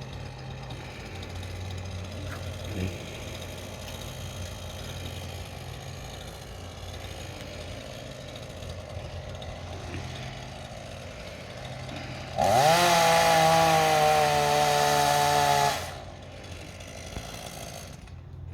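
Two-stroke chainsaw idling, then revved hard about twelve seconds in, held at high speed for about three seconds and dropped back to idle. Its new chain has been put on backwards, so it cuts poorly.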